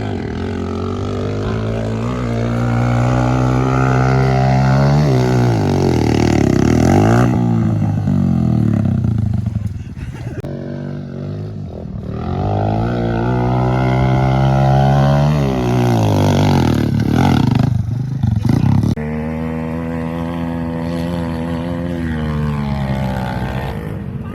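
Off-road vehicle engine revving hard under load on a sand hill climb. The pitch climbs and falls in two long surges as the throttle is worked, with a few sharp drops. Near the end it settles to a steadier, lower running.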